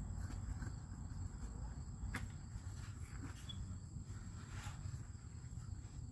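Outdoor background: a steady low rumble with a thin, steady high-pitched tone, broken by a few scattered light clicks or taps, the sharpest about two seconds in.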